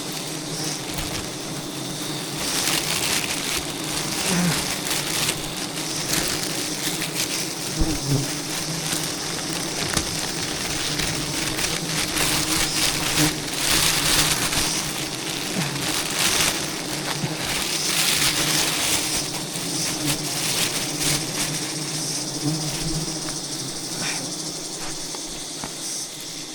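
A swarm of giant honey bees buzzing, a steady low drone, under a rushing hiss that swells and fades several times.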